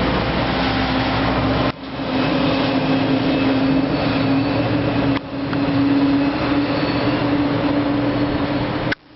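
Steady engine running with a droning hum under a hiss. The sound dips abruptly twice, a couple of seconds in and about five seconds in, and cuts out sharply near the end.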